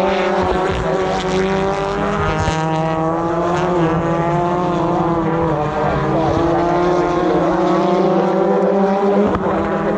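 British Touring Car Championship cars racing past on track, several engines running hard together, their pitch rising and falling through the corners and gear changes.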